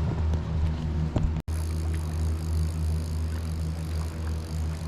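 A motor running with a steady low hum, broken off for an instant about a second and a half in by a cut before it carries on.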